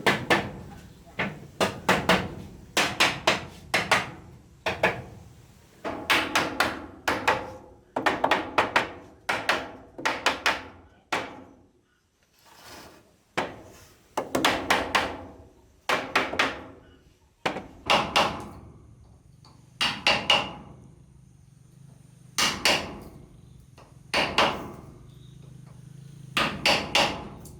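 Hammer blows on timber, struck in quick runs of two to four with short pauses between.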